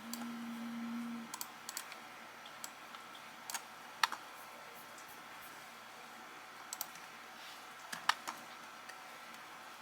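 A short low hum for about the first second, then scattered light clicks and taps at an uneven pace.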